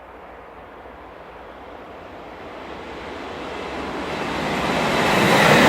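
A train approaching, its rushing noise growing steadily louder from faint to loud as it nears.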